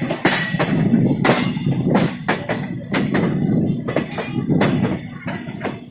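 Indian Railways passenger coach running along the track, its wheels clattering over rail joints, with a steady low rumble and repeated knocks and rattles from the carriage.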